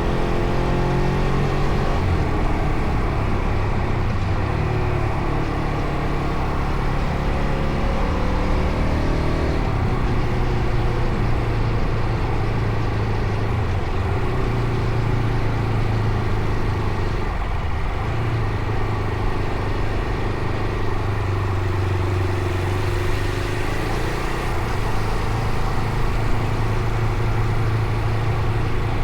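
Fantic Caballero Rally 500's single-cylinder four-stroke engine running while riding, its pitch rising and falling through the first ten seconds, then holding mostly steady.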